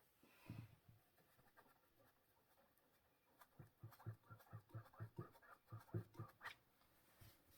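Faint, quick strokes of a painting tool working paint on a canvas, about three a second for a few seconds.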